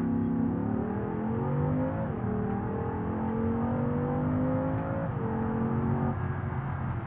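Porsche Cayenne Turbo S twin-turbo V8 accelerating, heard from inside the cabin. The revs climb steadily and fall sharply at each upshift, about two seconds in and again about five seconds in, then step down once more just after six seconds.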